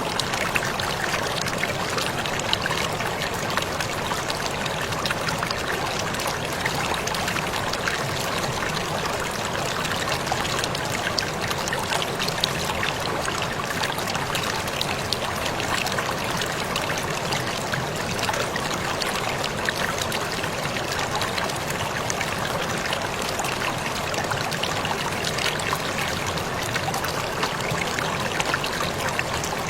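Waterfall splashing steadily, water pouring and trickling over rock, with many small splashes and drips through it.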